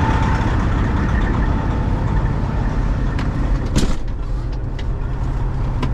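Peterbilt semi-truck running with a steady low diesel rumble, and a sharp click nearly four seconds in.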